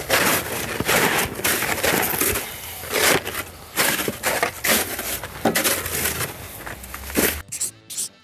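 Snow shovel chopping and scraping at packed snow and ice around a car stuck to the ground, a run of crunching strokes about one or two a second. The sound cuts off near the end.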